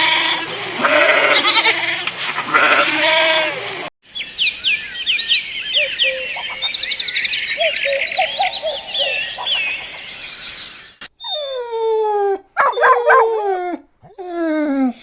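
Animal calls cut together: bleating for the first few seconds, then a dense chorus of high chirps, then several loud calls that slide down in pitch near the end.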